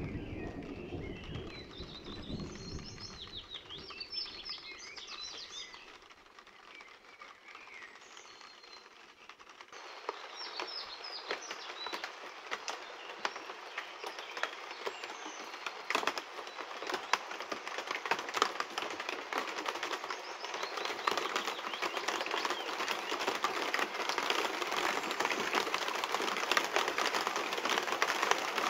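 The rumble of a thunderclap dies away while a bird sings in short phrases. About ten seconds in, rain sets in as a hiss of many small drops ticking on leaves, and it grows steadily heavier.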